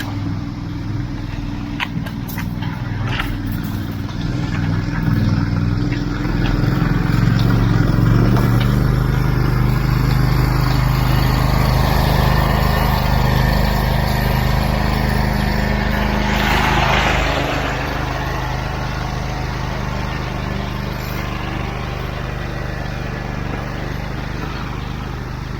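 Heavy engine running steadily, its revs rising about seven seconds in and holding high, with a brief rushing hiss about sixteen seconds in.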